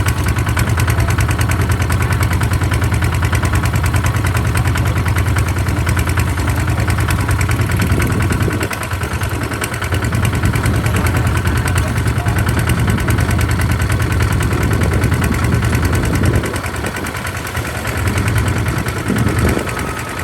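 Kubota RT140 DI single-cylinder diesel engine on a walk-behind farm tractor, running steadily with a fast even chugging. It eases off briefly about eight seconds in and again around sixteen seconds.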